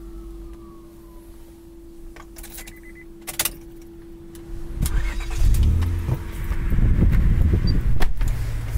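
Keys jingle and click in the ignition of a 2000 Honda Accord V6 over a steady tone. About five seconds in, the engine cranks and catches, then runs at a strong, steady idle just after a cold start.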